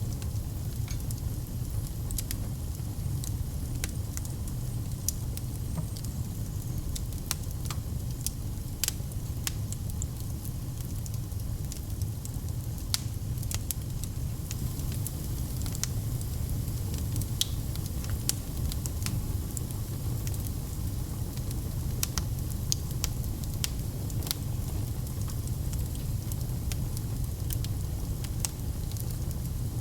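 A wood fire in a fireplace crackling: irregular sharp pops and snaps over a steady low rumble of burning flames.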